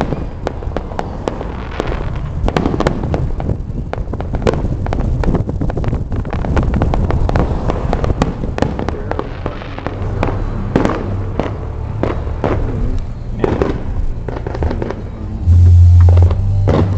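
Fireworks going off: a dense, irregular string of bangs and crackles over a steady low rumble, with a louder low rumble coming in near the end.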